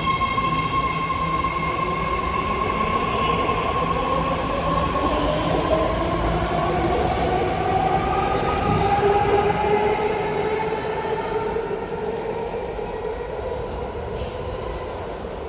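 BART train pulling out of the station, its propulsion motors whining in a pitch that rises as it picks up speed, over steady wheel-on-rail rumble. The sound eases off in the last few seconds as the train draws away.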